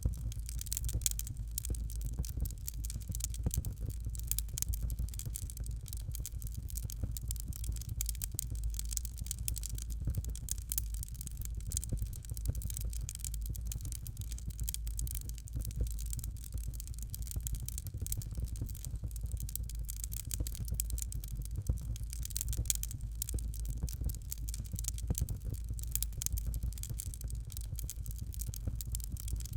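Fireplace fire crackling steadily, with many small pops and snaps over a low rumble.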